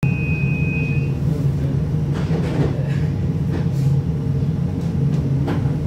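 Breda VLC tram running along its line with a steady low rumble and a few faint clicks. A high steady tone sounds for about the first second and then stops.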